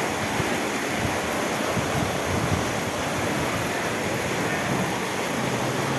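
Heavy rain mixed with hail pouring down in a steady rushing hiss.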